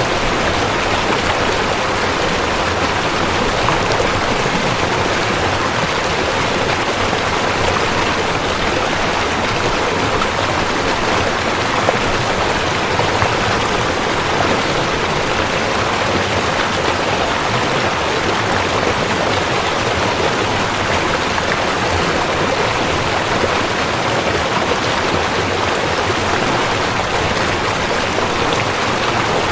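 River water flowing and splashing in a steady, even rush.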